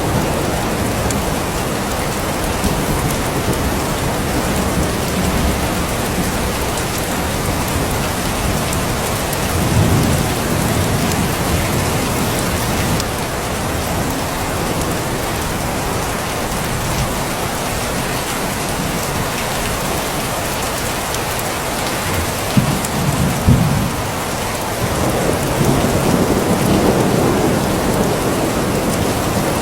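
Steady heavy rain falling, with low thunder rumbles swelling about ten seconds in and again in the last third, where two short sharp cracks stand out.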